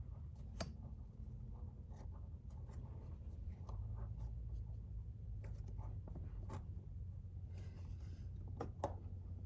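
Faint scraping and small clicks of a transmission sealing ring being worked by hand down a lubricated installer tool, over a steady low hum.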